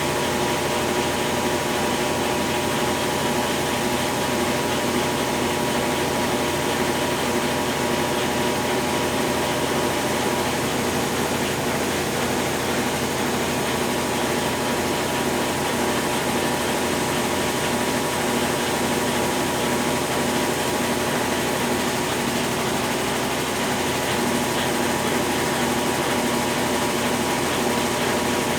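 Consul Facilite 10 kg (CWC10) washing machine running its wash stage after a mechanical overhaul: a steady mechanical hum with several constant tones and no change in level.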